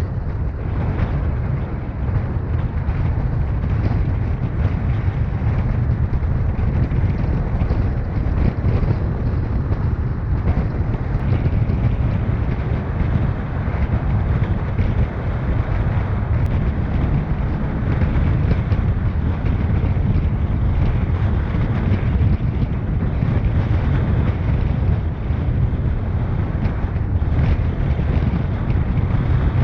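Steady low rumble of a car driving, with road noise and wind buffeting the microphone.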